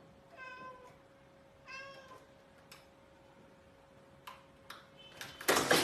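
A cat meowing twice, short high-pitched meows about a second apart, followed by a few faint clicks; a loud, noisy sound starts near the end.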